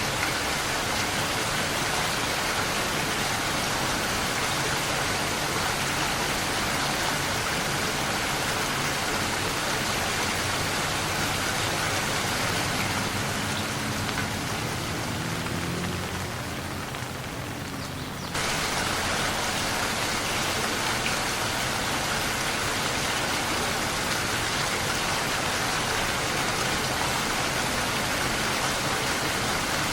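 Steady rain falling in a dense, even hiss. A little past the middle it softens and dulls for a few seconds, then comes back at full strength suddenly.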